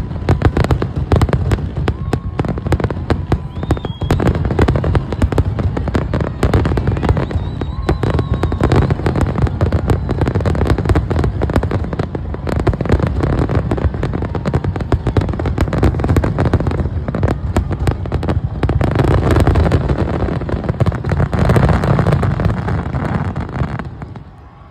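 Aerial fireworks going off in a dense, rapid barrage of overlapping bangs and crackles, dying away suddenly near the end.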